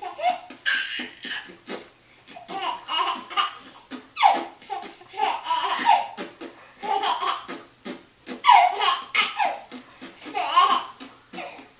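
Laughter coming in repeated bouts, with short sharp pops in between.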